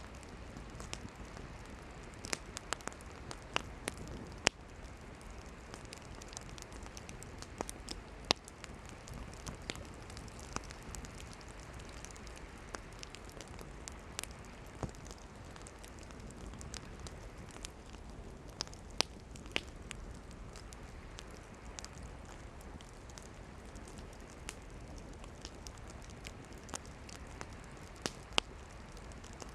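Wood campfire burning, with irregular sharp crackles and occasional loud pops over a steady low hiss of the flames.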